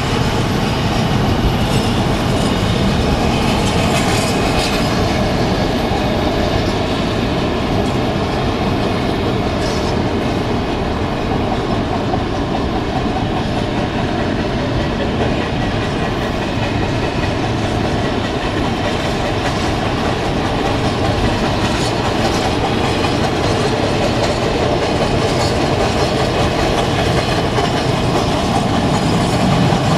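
Freight train wagons rolling along the rails, a steady rumble heard from a car moving alongside, mixed with the car's own road noise.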